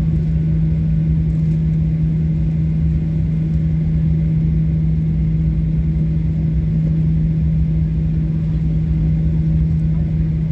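Boeing 737-800 cabin noise from its CFM56 engines at high thrust: a steady, loud drone carrying a strong low buzzing tone, the CFM56 'buzzsaw', over a deep rumble.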